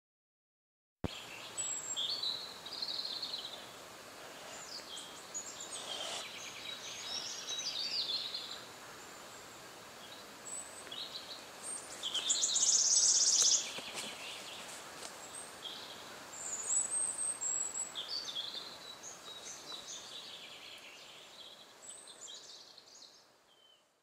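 Small woodland birds singing, with a series of short high songs and calls over faint outdoor hiss. The loudest is a dense high trill about twelve seconds in. The sound starts abruptly about a second in and fades away near the end.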